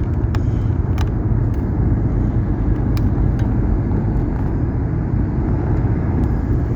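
Car driving along, heard from inside the cabin: a steady engine and road rumble, with a few light clicks.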